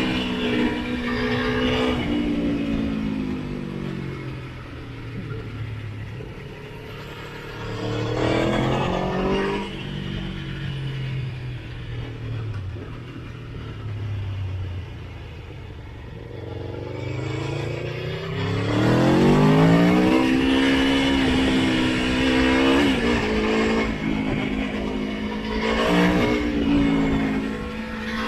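Motorcycle engine under way: the revs fall away off the throttle, pick up briefly, then sink low. About two-thirds of the way in, the engine pulls hard, climbing steeply in pitch, and stays high with two short dips.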